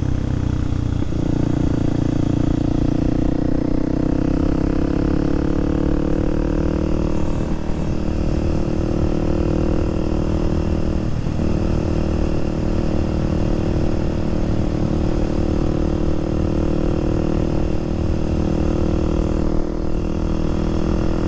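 Kawasaki KLX300SM supermoto's single-cylinder engine running steadily as the bike cruises along. Its pitch steps up about a second in and rises slowly for a few seconds, then holds, with a brief dip about eleven seconds in.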